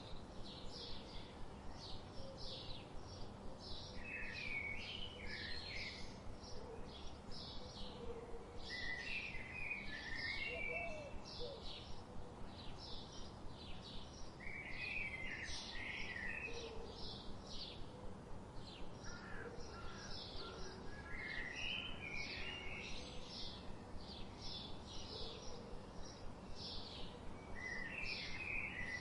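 Songbirds chirping: a continuous run of short high notes, about two or three a second, with a lower warbling phrase breaking in every five or six seconds, over a steady background hiss.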